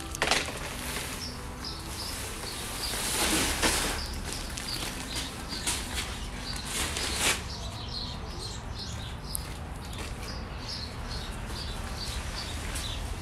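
Small bird chirping repeatedly: short high chirps, two or three a second, over a steady low rumble. A brief rush of noise comes about three seconds in.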